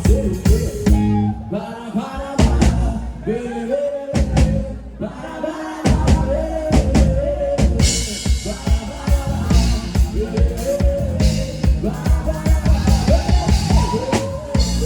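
Live band music: a drum kit with kick and snare under a melody line. The drums drop out twice, briefly early on and again for a couple of seconds in the middle, over a held low note, then the full kit comes back in about six seconds in.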